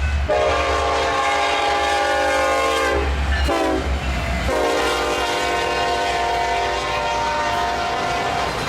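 Union Pacific diesel locomotive's air horn sounding a long blast, a short one, then another long blast, over the low rumble of the approaching train. The horn sounds weird in the roughly 6-degree cold.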